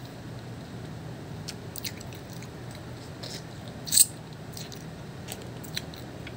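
Someone eating pomelo pulp: scattered wet mouth clicks and chewing, with the sharpest click about four seconds in, over a low steady hum.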